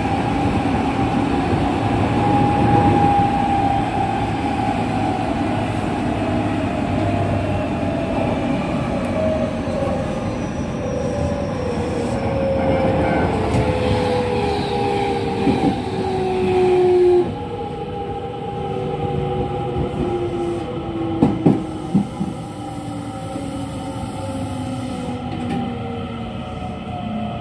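Onboard running sound of a JR West 207 series electric train with its original traction motors: the motor whine falls steadily in pitch as the train slows. A few sharp knocks come from the wheels and running gear partway through.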